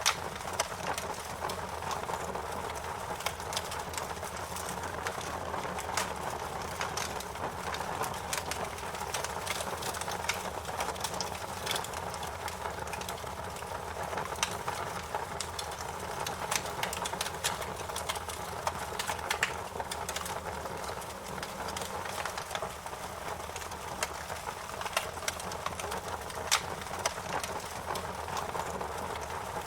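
Wood fire crackling: irregular sharp pops and snaps, many per few seconds, over a steady rushing hiss of the burning flames.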